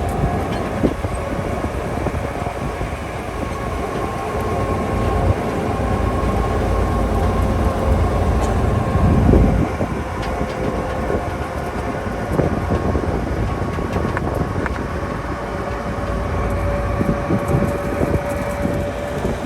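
Tour train rolling along the track: a continuous low rumble and rattle of the cars, with a steady thin whine over it. There is a louder swell of rumble about nine seconds in.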